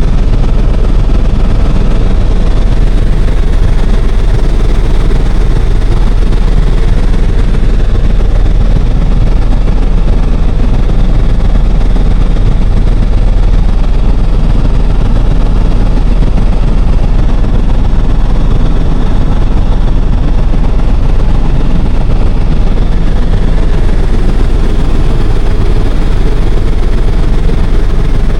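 Helicopter in flight, its rotor and engine noise loud and steady throughout.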